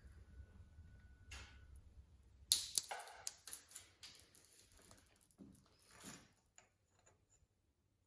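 Small metal parts and tools clinking and clattering for about a second and a half, with a high metallic ring, among scattered quieter handling clicks.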